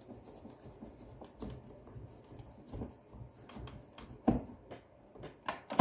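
Scattered light clicks and knocks from a vacuum cleaner being handled during repair, with one sharper knock about four seconds in.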